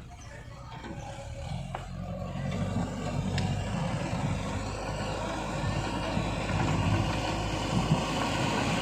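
Mahindra Arjun tractor's diesel engine running, growing louder over the first few seconds, then holding steady.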